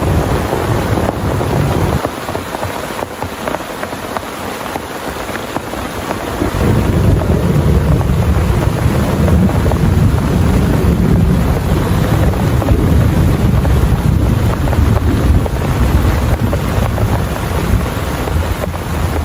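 Heavy rain pouring steadily, under a deep low rumble. The rumble drops away about two seconds in and returns strongly after about six seconds.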